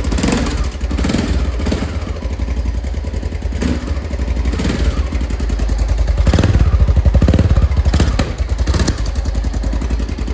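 Honda NX 650 Dominator's single-cylinder engine running cold on the choke, a steady low-pitched idle that grows louder for a couple of seconds about six seconds in.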